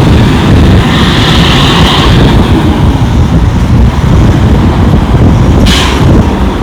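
Wind buffeting the microphone: a loud, steady low rumble. A brief hiss rises about a second in, and a short sharp noise comes near the end.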